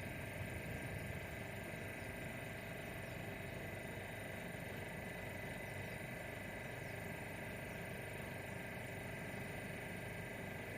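Faint steady electrical hum with several held tones from Class 730 electric multiple units standing at the platform.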